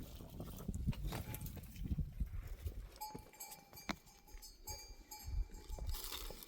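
A livestock bell ringing on and off from about halfway in, over a low rumble.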